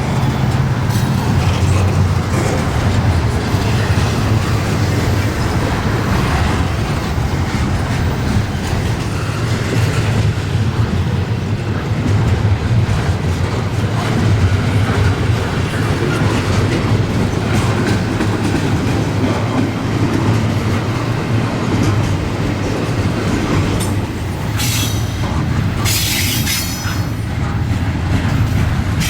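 Long intermodal freight train rolling past, a steady rumble of cars and wheels over the rails. A couple of brief high-pitched wheel screeches come near the end.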